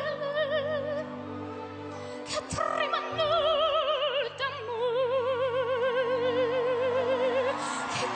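A 13-year-old girl singing opera in a classical soprano style, holding notes with a wide, even vibrato; near the middle she moves to a lower note and holds it for about three seconds.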